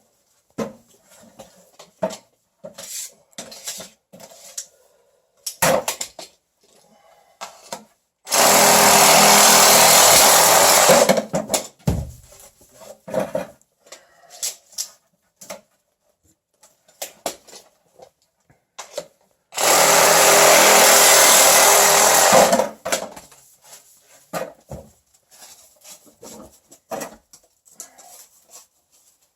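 A power saw cutting pipe to length in two separate cuts of about three seconds each, with small knocks and clicks of the pipe being handled between them.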